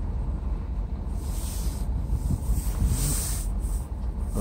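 Freight train rolling through a grade crossing, heard from inside a stopped car: a steady low rumble, with a hiss that rises about a second in and fades shortly before the end.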